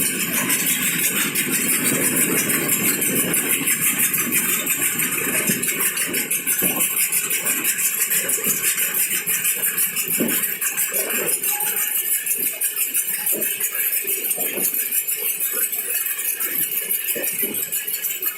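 Loading machinery running steadily with a fast, even high-pitched ticking, and short scattered knocks through the second half.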